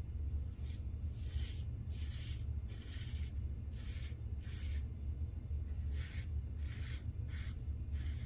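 Safety razor scraping through lather and stubble in about a dozen short strokes, with a pause of about a second midway. A steady low hum runs underneath.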